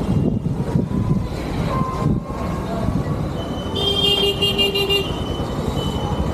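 Motorcycle riding noise in traffic: wind buffeting the microphone over a running engine, with a vehicle horn sounding once for about a second, about four seconds in.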